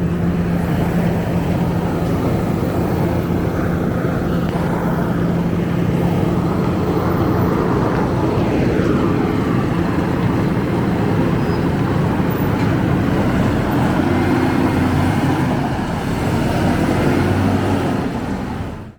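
Scania K270UB city bus running with a steady low engine drone, and a falling whine about halfway through.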